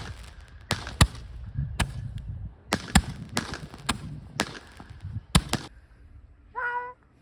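Small fireworks going off in a string of sharp, irregularly spaced cracks, about a dozen, stopping about six seconds in. A brief pitched call follows near the end.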